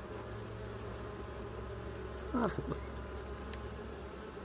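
Honey bees buzzing around an open hive as a steady low hum.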